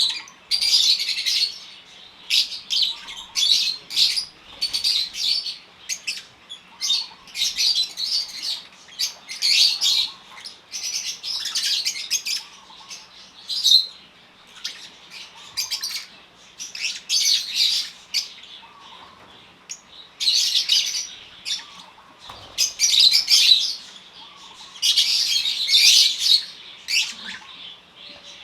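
A flock of African lovebirds calling, with shrill high-pitched chirps and squawks in quick, overlapping bursts every second or so and a few brief lulls.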